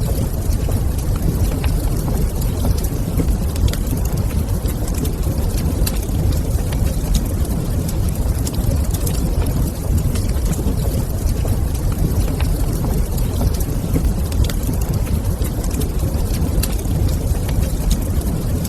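Fireplace ambience: a wood fire crackling, with scattered small sharp pops over a steady low rumble.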